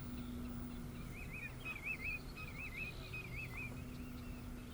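A bird calling in four short, wavering whistled phrases close together, starting about a second in, over a faint low steady rumble of outdoor background noise.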